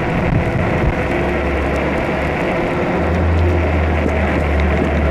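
Steady wind and road noise on a chest-mounted camera while riding a fat-tire e-bike through traffic in the rain. A deep low rumble gets stronger about three seconds in.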